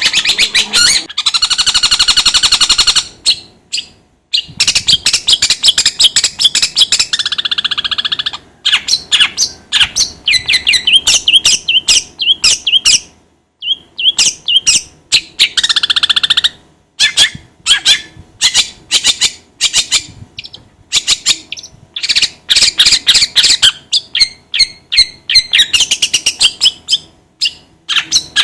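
Long-tailed shrike (cendet) singing loudly in rapid chattering phrases of sharp, quick notes, broken by short pauses. This is the kind of song played to bring a kept cendet into singing form.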